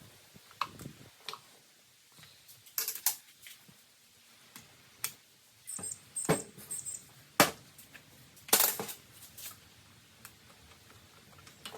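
Irregular clicks, taps and clinks of hand tools and small parts being handled while working on the hedge trimmer's screws, with a few sharper knocks in the second half.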